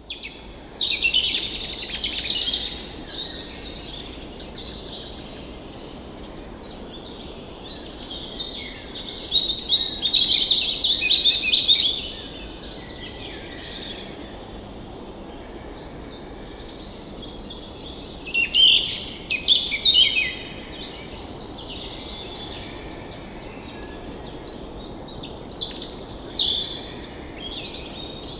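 Several songbirds chirping and singing over the steady rush of a forest stream, the birdsong coming and going in louder spells.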